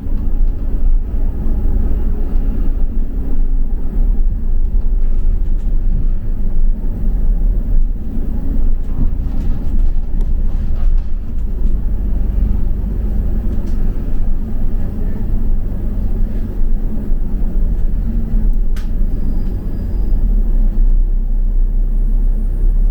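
Steady low rumble of a double-decker bus's engine and road noise, heard from inside the passenger cabin, with a single sharp click near the end.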